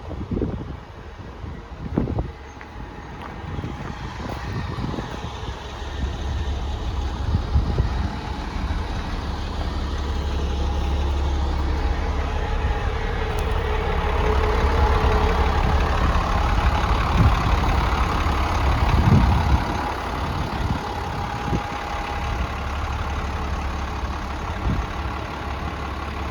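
Truck engine running steadily, louder from about four seconds in, with a few knocks early on and a steady whine joining in about halfway through.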